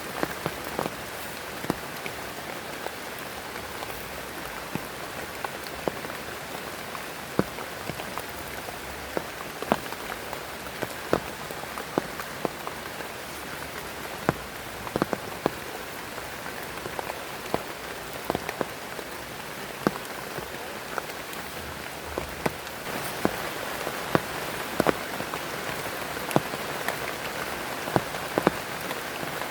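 Heavy rain falling steadily, with frequent sharp taps of large drops landing close by; it grows a little heavier near the end.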